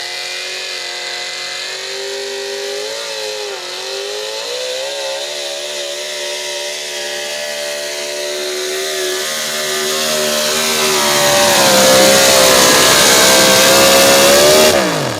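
Super stock pulling truck's engine held at high revs under full throttle during a pull, getting louder through the run. Near the end the pitch falls sharply and the engine winds down as the throttle comes off.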